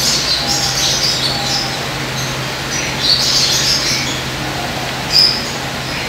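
Aviary birds chirping in short scattered calls, the loudest just after five seconds, over a low steady hum.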